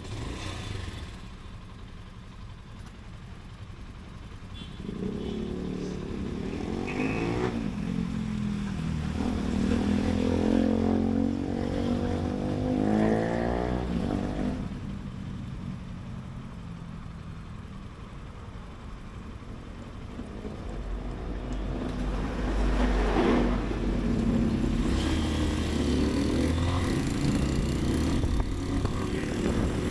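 Motorcycle engine accelerating up through the gears, its pitch climbing and dropping at each shift, then easing off to a quieter stretch before pulling away again over the last third, with street traffic around it.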